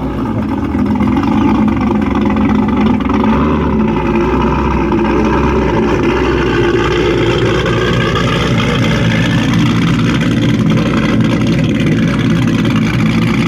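Muscle car engine running steadily, loud, building a little over the first second or two and then holding an even idle-like note with no big revs.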